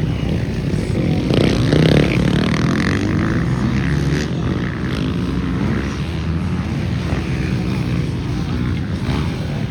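Motocross bikes running on the track, their engines revving, swelling loudest about a second or two in.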